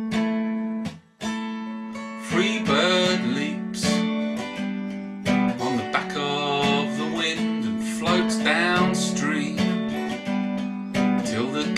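A song: acoustic guitar strumming, with a singing voice coming in about two seconds in. The music breaks off briefly about a second in.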